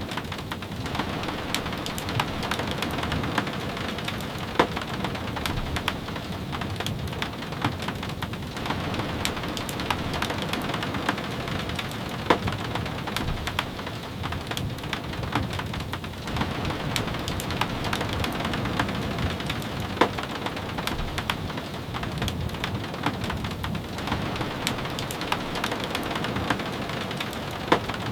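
Steady rain hissing and pattering, with many small drop ticks and a louder sharp pop about every eight seconds.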